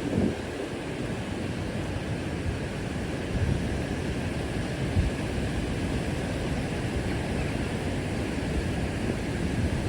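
Steady rushing of river water over falls, with low buffeting of wind on the microphone.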